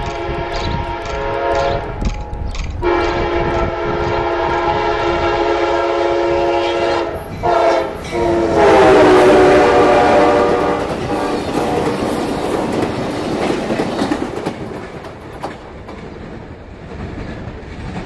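Amtrak passenger train's locomotive horn blowing four blasts, long, long, short and long, the standard grade-crossing signal; the last blast drops in pitch as the locomotive passes. Then the passenger cars' wheels clatter on the rails and fade away.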